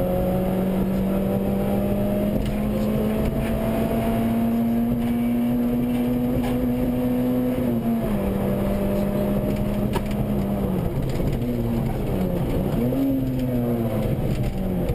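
Rally car engine heard from inside the cabin, pulling hard with its pitch climbing slowly, then dropping sharply at an upshift at the start and again about eight seconds in. Near the end the revs fall, flick back up briefly, and fall away again.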